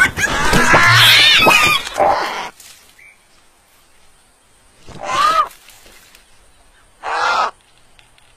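Bird calls: a busy stretch of high, gliding calls for the first two and a half seconds, then two separate short harsh calls about five and seven seconds in.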